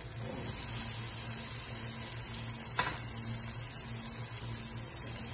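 Masala and oil sizzling steadily in a pot as boiled chickpeas are tipped in from a glass bowl, with one short knock about three seconds in and a low steady hum underneath.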